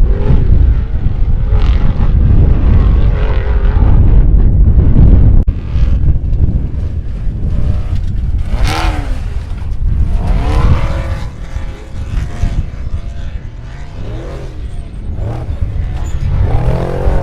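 Off-road race vehicles' engines running hard, with several rising and falling engine-pitch sweeps as they rev or drive past over a heavy low rumble.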